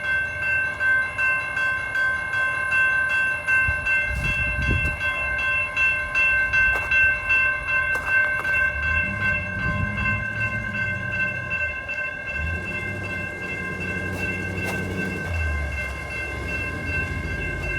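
Railroad crossing warning bell ringing continuously as the crossing signals flash, set off by a track circuit malfunction with no train approaching. A lower rumble comes and goes in the middle part.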